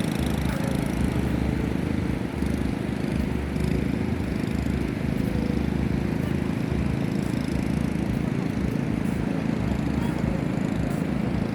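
Steady low rumbling noise of wind and surf at the seashore, with no clear pitch or rhythm.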